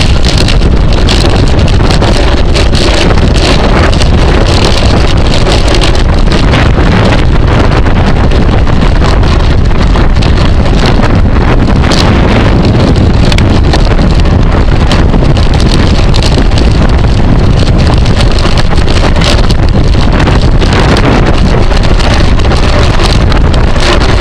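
Heavy, steady wind noise buffeting the microphone of a camera carried on a racing bicycle at speed, a loud low rumble throughout with a scatter of faint clicks.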